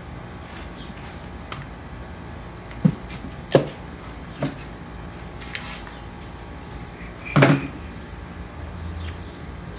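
Scattered clinks and knocks of metal hand tools and parts being handled and set down during a hydraulic pump teardown: about five sharp knocks a second or so apart, the loudest and longest near the end.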